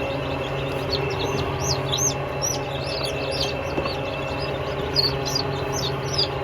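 Small birds chirping rapidly and continuously, several short rising-and-falling chirps a second, over a steady hum.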